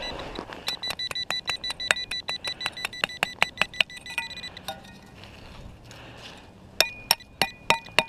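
Metal digging tool chipping at hard-packed ice, each strike a sharp ringing clink. A fast run of strikes starts about a second in, then after a pause another run comes near the end.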